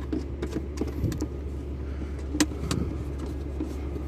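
Scattered metallic clicks and clinks of hand tools from a socket set being worked, the sharpest about two and a half seconds in, over a steady low hum.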